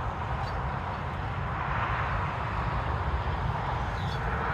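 Road traffic going by: a steady hiss of tyres that swells about two seconds in and again near the end.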